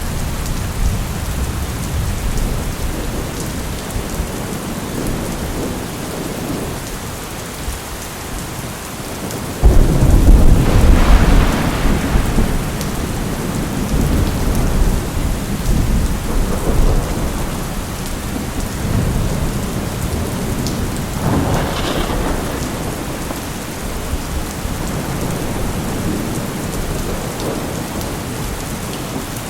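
Steady rainfall with rolling thunder: a sharp, loud thunderclap breaks out about ten seconds in and rumbles for several seconds, and a smaller crack follows about twelve seconds later.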